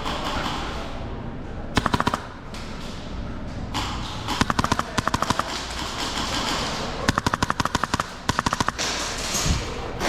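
Airsoft guns firing short full-auto bursts of rapid clicks, about twenty shots a second: one burst about two seconds in, then a string of bursts around the middle and again towards the end.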